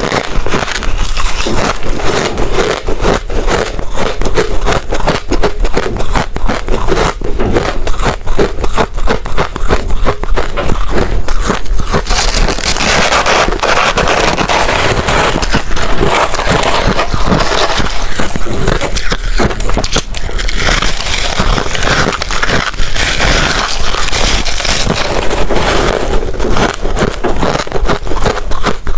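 Ice being bitten and chewed close to the microphone: continuous, dense, irregular crunching and crackling.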